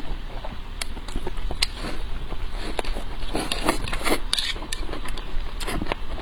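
A person chewing and biting food close to the microphone: irregular crunches and wet mouth clicks.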